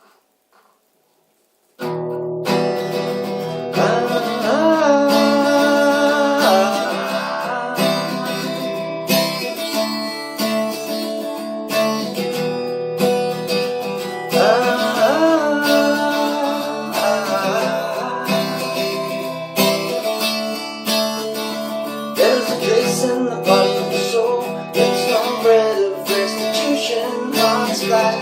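Acoustic guitar played as a song intro, starting about two seconds in after a brief silence.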